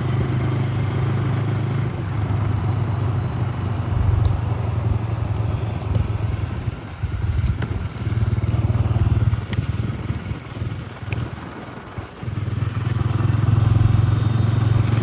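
Strong storm wind buffeting the microphone in gusts, a heavy rumble that swells and eases, with a few scattered clicks and clatters.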